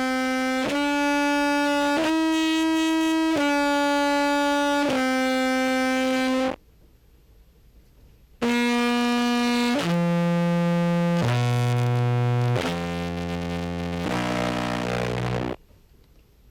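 Contrabass clarinet amplified through a fuzz and compressor pedal chain, playing sustained buzzy notes. A phrase of about five held notes is followed by a pause of about two seconds, then a second phrase that steps down into lower notes. Each note holds an even level while the compression is being dialed in.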